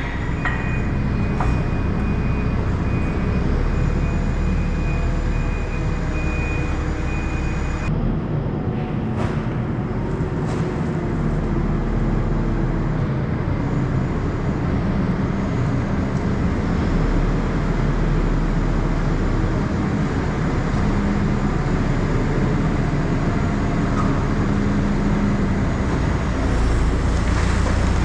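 A vehicle engine running steadily, with no break.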